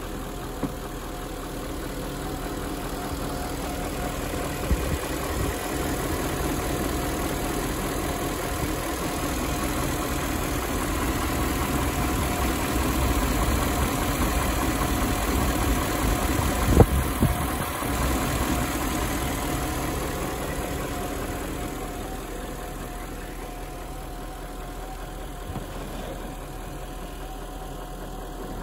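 BMW E38 740i's 4.4-litre V8 idling steadily while warming up after a cold start. It grows somewhat louder through the middle and eases off after about twenty seconds, with a few sharp clicks.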